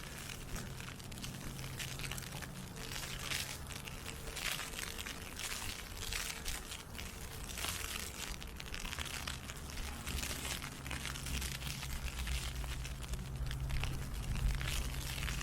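Ice pellets pattering on an umbrella canopy, a dense irregular crackle, over a low rumble that grows slightly near the end.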